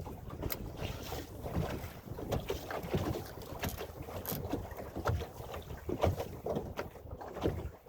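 Wind buffeting the microphone on a small boat, with irregular knocks and slaps of choppy water against the hull.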